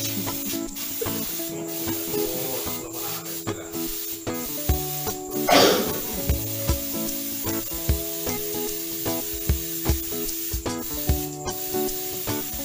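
Airbrush hissing as it sprays paint, the hiss breaking off briefly a few times, over background music with a steady beat. A brief louder whoosh comes about five and a half seconds in.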